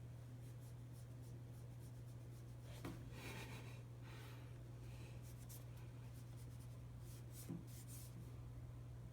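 Faint light scratching and tapping, with a soft scratchy rustle about three seconds in and two small thumps, over a steady low hum.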